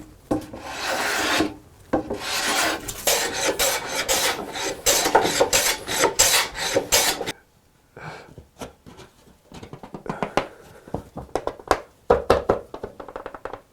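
A hand tool rasping across wood in repeated strokes, quickening toward the end of the run. After about seven seconds it stops and gives way to lighter scattered taps and short scrapes.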